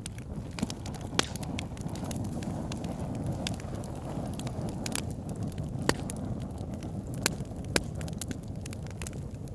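Wood fire burning in a fireplace: a steady low rumble of flames with scattered sharp crackles and pops, a few of them louder snaps.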